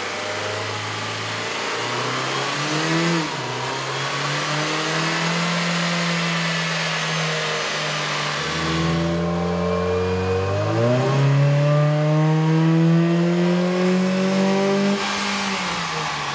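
A 2011 Ford Fiesta's 1.6-litre four-cylinder engine pulling on a chassis dyno in two runs: the first with the stock airbox intake, then, about halfway through, with an AEM cold air intake fitted. Each run is an engine note climbing steadily in pitch as the revs rise, dipping briefly where the revs fall.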